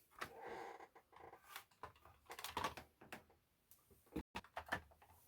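Faint handling noises of hard plastic RC car parts: a soft rustle at first, then scattered light clicks and taps, with one sharper click about four seconds in.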